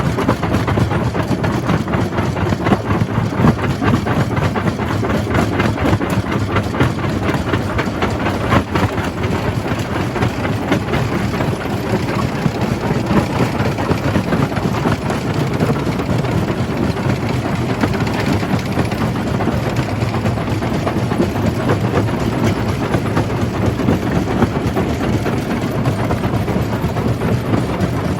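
Jaw crusher running and crushing rock: a steady, loud mechanical din thick with a constant rattle of small knocks.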